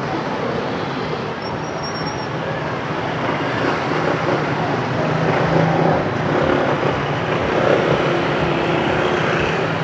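Street traffic: motor vehicles running and passing in a steady wash of road noise with a low engine hum, slightly louder in the middle.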